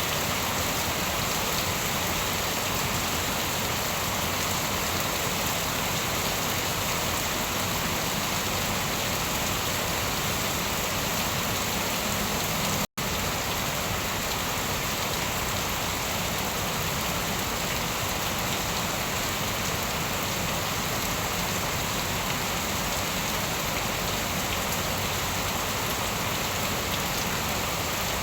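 Steady rain falling on a surface, an even, dense hiss of drops with no change in strength. About halfway through, the sound cuts out for an instant and comes straight back.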